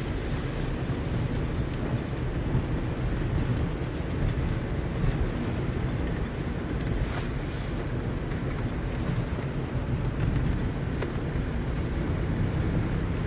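Car driving on a wet road in the rain: a steady low rumble of engine and tyres, with a few faint clicks scattered through it.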